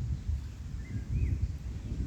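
Low, uneven outdoor rumble, with a couple of faint short bird chirps about a second in.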